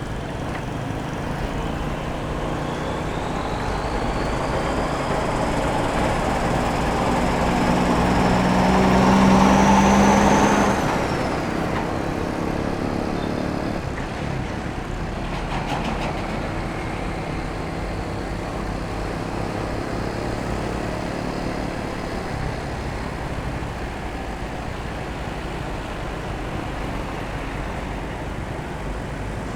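Motorcycle riding through city traffic: a steady mix of engine and road noise, with a louder engine swelling and passing close about ten seconds in, its whine rising and then dropping off sharply.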